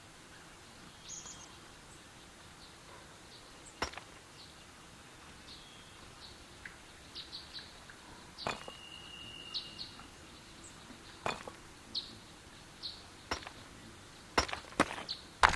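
Small birds chirping faintly and intermittently, with scattered sharp clicks or taps, several in quick succession near the end.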